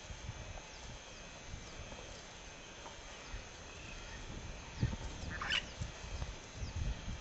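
Bush ambience of bird calls: a short high falling chirp repeats about twice a second, and a brief harsh chattering call comes about five and a half seconds in, over scattered low thumps.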